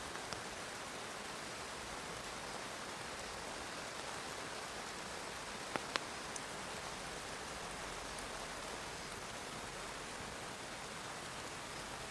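Rain falling steadily, an even hiss, with two sharp taps close together about halfway through.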